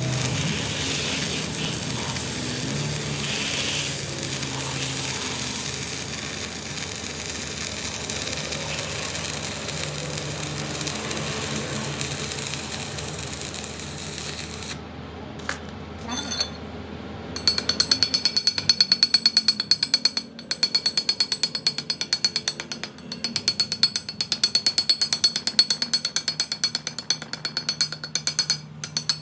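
Workshop machine noise: a steady hissing run with a low hum for about fifteen seconds, then after a brief pause a fast, even train of metallic clicks with a ringing edge, like a ratchet or a rapid tool striking metal.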